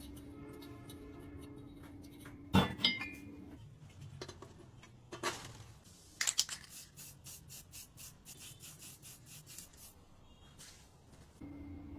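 Hand work on metal engine parts: a sharp clink or knock, then a run of rubbing or scraping strokes at about three a second, like filing or scrubbing a part. A steady low hum runs under the first few seconds.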